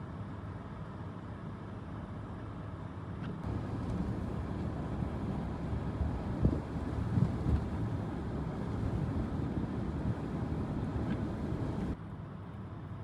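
Steady low vehicle rumble, like an engine and tyres heard while driving, with a couple of brief thumps around the middle. The sound gets louder about three and a half seconds in and drops back near the end.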